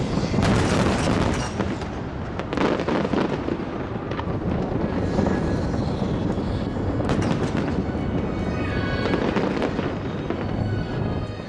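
Aerial fireworks bursting and crackling in quick, dense succession, with sharp bangs over a continuous crackle.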